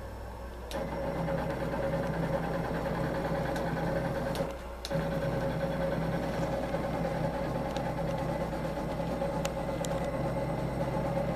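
Butterfly multi-needle embroidery machine running and stitching, a steady mechanical hum that starts about a second in and briefly drops out about four and a half seconds in before carrying on.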